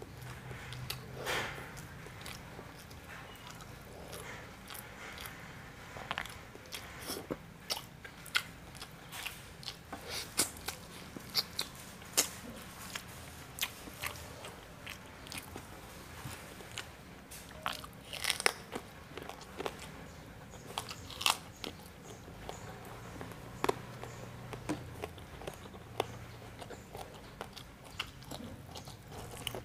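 A person eating close to the microphone: chewing with frequent sharp, irregular crunches and wet mouth sounds.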